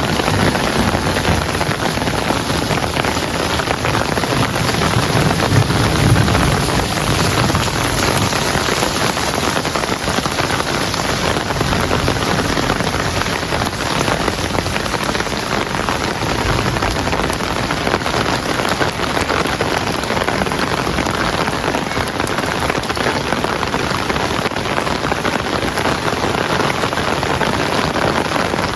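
Heavy rain falling steadily, a dense even hiss of drops hitting surfaces, with a low rumble underneath in the first six seconds or so.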